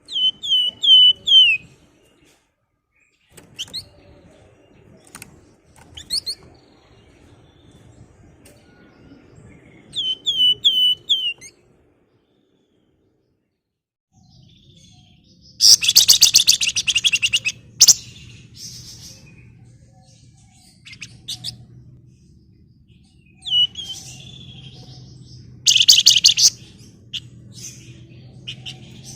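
A flamboyan songbird singing. It gives short runs of four or five quick falling whistles, and several times breaks into loud, rapid buzzy chattering trills. Single sharp notes fall in between. A faint low hum runs under the second half.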